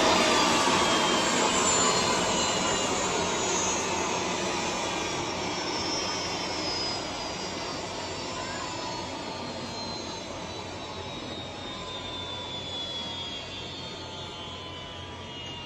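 Jet aircraft passing and moving away: a rushing engine noise that fades steadily, with several whining tones sliding slowly down in pitch.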